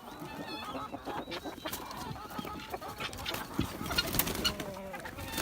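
A flock of laying hens clucking and flapping their wings as they are let out of their house, with many sharp clicks and knocks that grow busier near the end.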